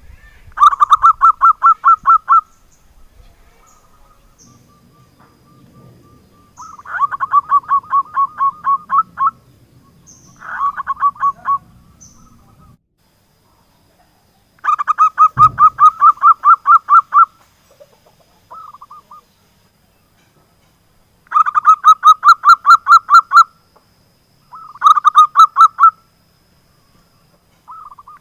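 Zebra dove (perkutut) calling in repeated bursts of rapid, staccato coos, each burst a quick run of evenly spaced notes lasting one to two seconds, with about seven bursts in all separated by short pauses. A single low thump comes about halfway through.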